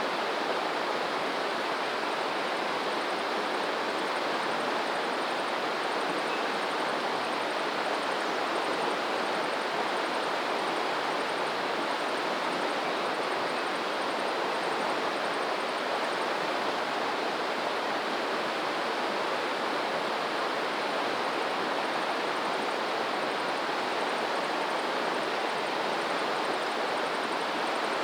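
Steady rush of running water from a stream or waterfall, an even noise that holds the same level throughout.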